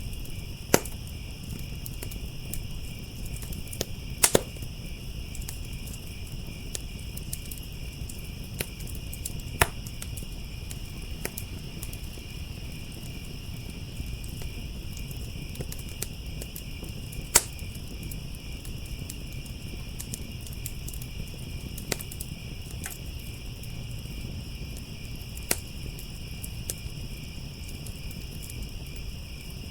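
Outdoor fire crackling, with a handful of sharp pops a few seconds apart, over a steady high-pitched chorus of crickets chirping.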